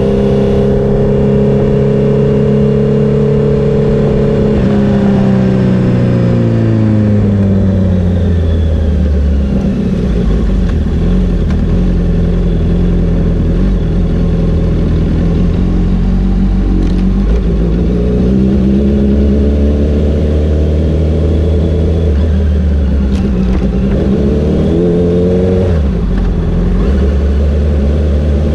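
Honda CBR 650R's inline-four engine while riding: the engine note falls over several seconds as the bike slows, holds steady at low revs, then climbs again, with a quick rise and drop near the end like a gear change.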